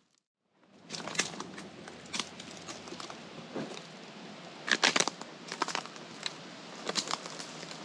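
Footsteps crunching through dry leaf litter and twigs, with many sharp crackles, loudest about five seconds in. The sound cuts in after a brief silence at the start.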